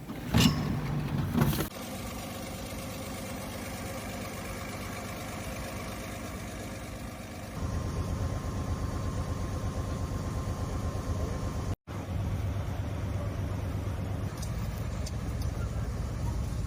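Engine running steadily after a brief louder, rougher burst at the start, growing louder and deeper about seven seconds in, with a short break near the middle.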